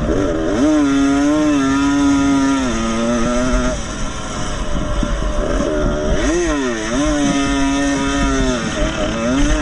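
Vintage motocross motorcycles running on a track. One engine revs up and holds a high note, steps down in pitch about three seconds in and fades, then revs up and holds again from about six seconds in, over the steady noise of other bikes.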